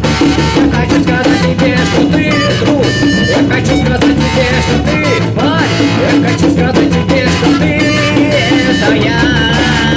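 1984 Russian rock band recording: a drum kit keeps the beat under a bass line and wavering melodic lines, perhaps a voice, across the middle range.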